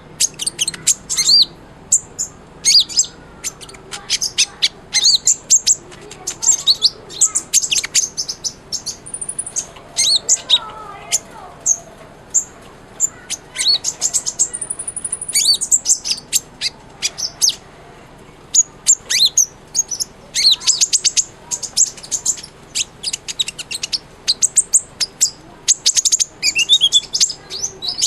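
Kolibri ninja sunbird singing a fast, busy song of high chirps and trills, with one longer high whistled note about halfway through and a falling slurred note near the end.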